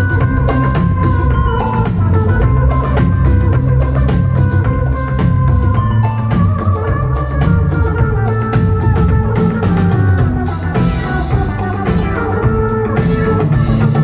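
Live psychedelic Anatolian rock band playing an instrumental passage: a drum kit keeps a steady beat under bass and a sustained melody line from guitar or keys. It is loud and continuous, with no singing.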